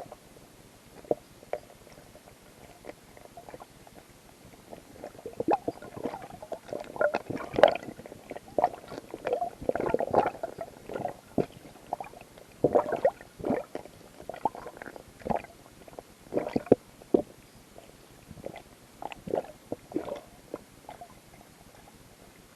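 Muffled underwater gurgling with irregular clicks and knocks, heard through a submerged camera housing. The clicks are sparse at first, busiest in the middle, and thin out near the end.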